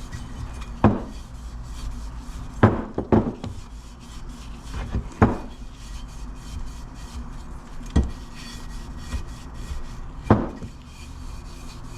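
Scotch-Brite pad wet with WD-40 being rubbed by hand around a nickel-plated ATV cylinder bore, scuffing a crosshatch for the piston rings to seat. A steady scrubbing sound is broken by several sharp knocks a second or two apart.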